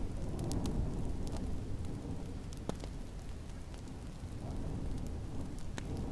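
Wood fire crackling with scattered sharp pops over a steady low rumble of snowstorm wind.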